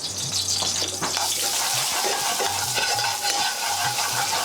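Garlic sizzling in hot vegetable oil in a pan, the sizzle growing louder about a second in, with light knocks of a utensil stirring it.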